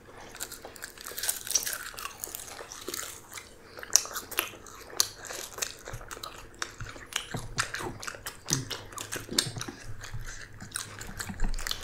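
Close-miked eating sounds: biting into and chewing crisp roasted seaweed sheets, with many irregular small crackles and mouth smacks.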